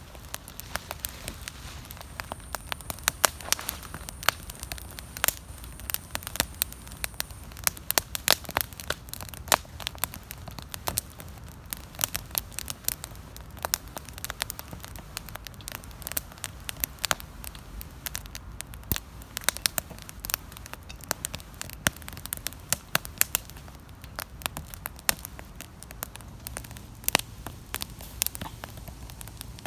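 Wood campfire crackling, with many irregular sharp pops and snaps over a low steady rumble of burning.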